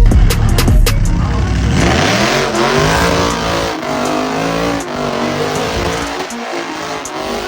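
Truck engine revving hard: its pitch climbs over about a second and a half, then holds at high revs under a broad hiss, typical of a truck doing a burnout with its tires spinning.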